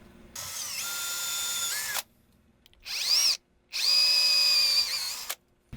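Power drill boring holes through short sections of wooden broomstick: a steady run of about a second and a half, a brief rising spin-up whine, then another steady run of about a second and a half, each cutting off sharply.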